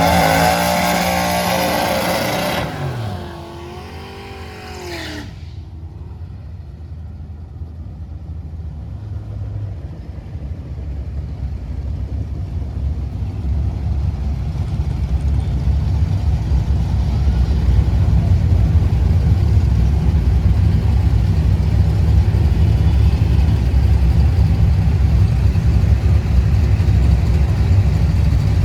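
Drag-strip racing engines: a loud engine sound whose pitch falls away over the first five seconds, then a low engine rumble that builds steadily louder.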